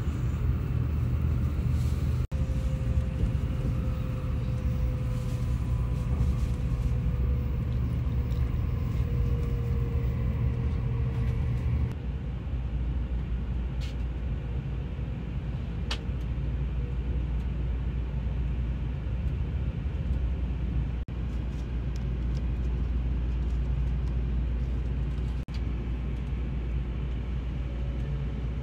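Steady low rumble of a Shinkansen bullet train running at speed, heard from inside the passenger cabin, with a faint whine in the first half. The noise drops a little about twelve seconds in and breaks off for an instant three times.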